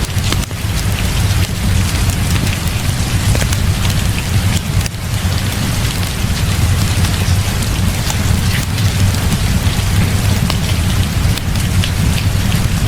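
Heavy rain falling steadily, a dense hiss with a steady low rumble underneath and scattered sharp little clicks.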